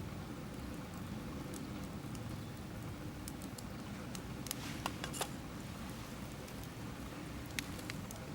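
Wood campfire burning: a steady low rush of flames with scattered crackles, and a few sharper pops about halfway through and one near the end.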